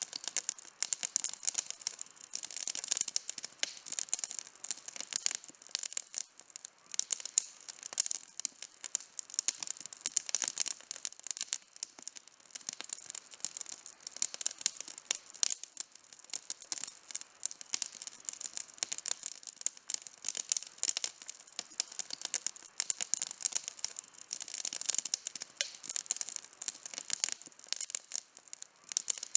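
Wood campfire burning with dense, continuous crackling and popping, many sharp snaps a second.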